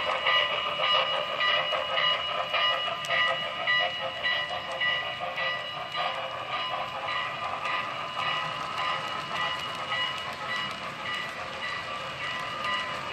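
Train sounds: a rhythmic ringing with steady tones, pulsing about twice a second and slowly fading.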